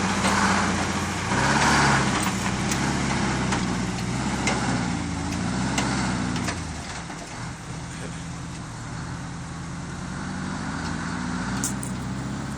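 Dump truck's engine running at raised revs while dumping, its pitch shifting, then dropping to a quieter, lower run about six and a half seconds in, with scattered knocks and clicks.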